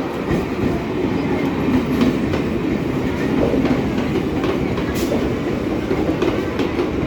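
Indian Railways train running on the track: a steady rumble with irregular clicks and knocks from the wheels over the rails.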